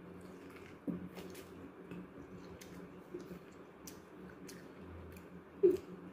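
Chewing a bite of boiled corn on the cob, with faint scattered mouth clicks. A brief louder sound comes about five and a half seconds in.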